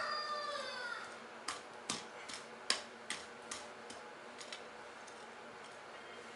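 A rooster's crow tails off in the first second. Then come sharp knocks, two or three a second, from a hand hoe working garden soil into potting soil. They fade out after about three seconds.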